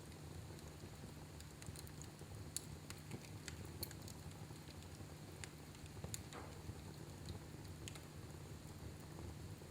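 Wood fire burning in a fireplace: a low steady rumble with irregular crackles and pops from the burning wood.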